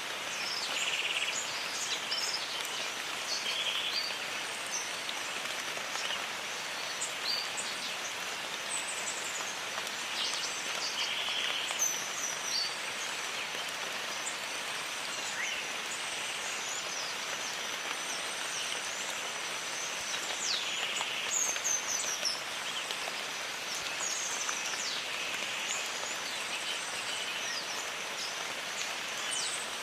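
Steady rain falling in a jungle, with birds calling over it: scattered short high chirps and quick falling whistles throughout.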